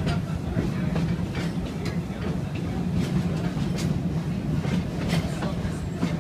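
Passenger cars of a park steam train rolling along the track: a steady low rumble, with scattered clicks of the wheels over the rails.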